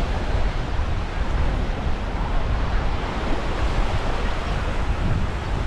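Small waves washing on a sandy shore, with wind buffeting the microphone as a steady low rumble.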